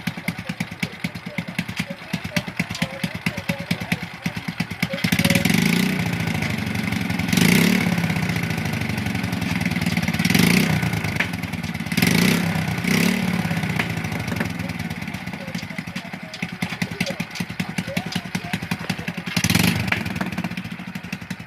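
Motorcycle engine idling, then revved with the throttle several times. Each rev rises quickly and falls back to idle.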